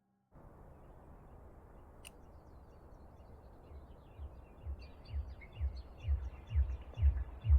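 Bird chirps, a string of short falling tweets, over a faint hiss, with a deep techno kick-drum beat fading in from about four seconds in. The beat runs at about two beats a second and grows steadily louder.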